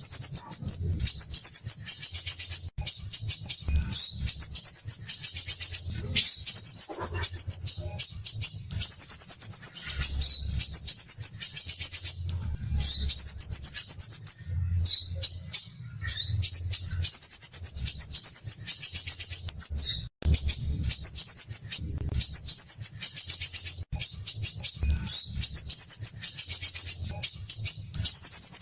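Crimson sunbird (sepah raja) singing phrase after phrase of rough, tightly packed high-pitched trills, each lasting a second or two with short breaks between.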